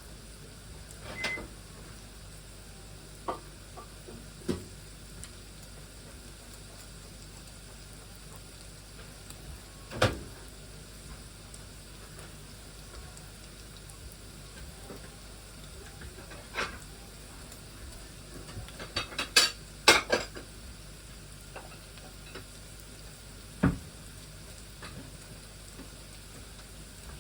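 Food frying in a pan with a steady sizzle, broken by scattered knocks and clatters of utensils and cookware, the loudest cluster about twenty seconds in.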